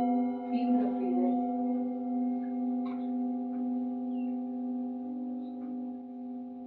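Singing bowl ringing on after a strike just before, several steady overtones sustaining and slowly fading.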